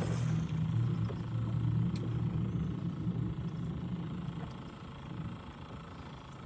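Boat motor running with a steady low hum that fades away about four and a half seconds in.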